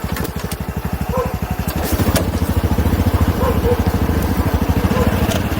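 Honda Super Cub 110's single-cylinder engine running with an even, fast low pulse. It grows louder about two seconds in as the throttle opens.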